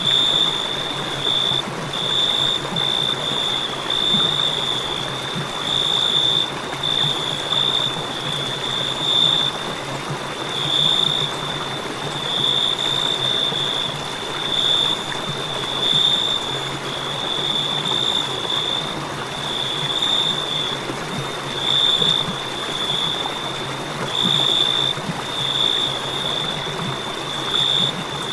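Crickets chirping in a continuous high-pitched trill that swells and fades every second or two, over a steady background hiss.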